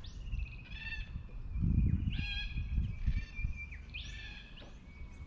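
Bush birds calling from the riverbank, a short call roughly once a second, with a thin steady whistle-like tone running underneath. A low rumble sits beneath the calls and swells about two seconds in.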